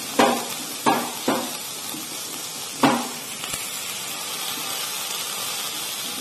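Chicken frying in a pot, sizzling steadily, while a utensil stirs it and knocks against the pot with a short ring four times in the first three seconds.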